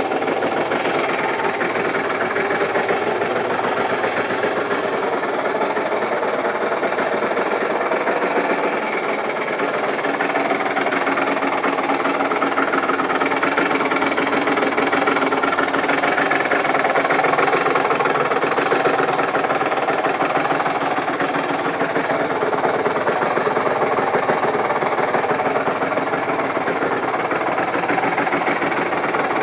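Aprilia RS 125's two-stroke single-cylinder engine running steadily through a Giannelli exhaust, with a fast, even rattling pulse and no big revs.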